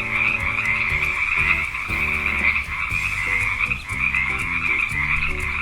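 Frogs croaking in a steady, unbroken chorus.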